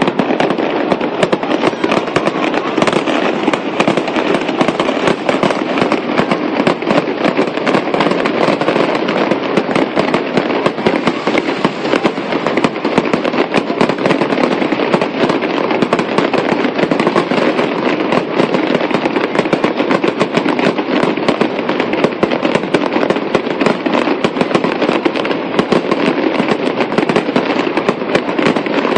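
Fireworks display: a dense, steady run of bursting shells and crackling pops, many a second, with no pauses.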